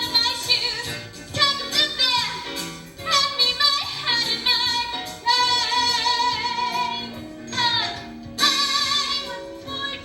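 A female voice belting a musical-theatre show tune with wide vibrato over instrumental accompaniment, with a long held note about halfway through.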